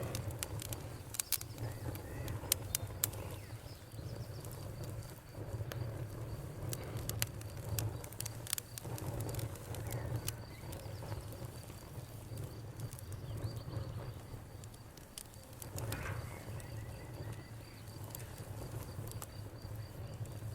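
Wood fire crackling: irregular sharp pops and snaps over a low steady rumble of the flames, with a faint, steady, thin high tone in the background.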